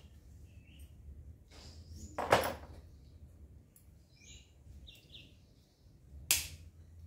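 Two sharp knocks, about four seconds apart, the first the louder, with a few faint high chirps between them.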